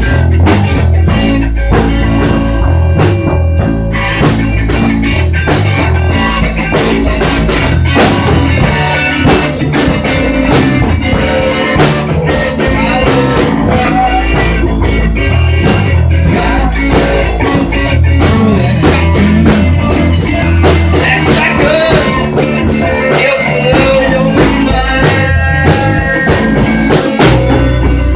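Live rock band playing an instrumental stretch: electric guitar lines over a steady drum kit beat and bass.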